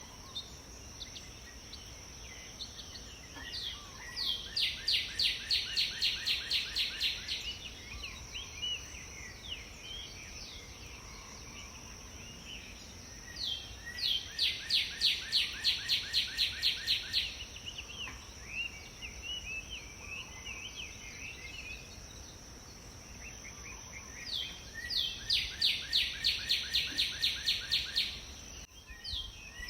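A songbird singing a rapid series of evenly repeated notes three times, each phrase lasting a few seconds and coming about every ten seconds, with softer scattered chirps in between. A steady high-pitched whine runs underneath.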